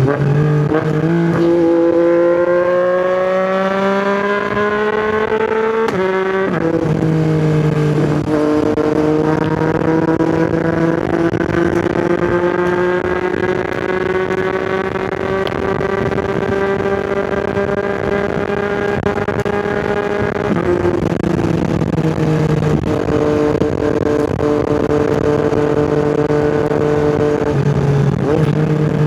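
Yamaha MT-09's inline-three engine through an Akrapovič exhaust under way. It pulls hard with its pitch climbing for about six seconds, drops sharply on an upshift, then holds a long, slowly rising note. The pitch drops again about twenty seconds in and then holds steady.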